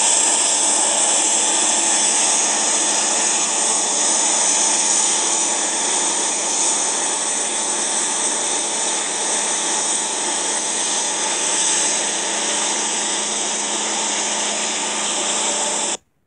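Diesel freight train passing: a steady, hiss-like roar over a low engine hum, slowly easing as the locomotives move away, cut off suddenly near the end.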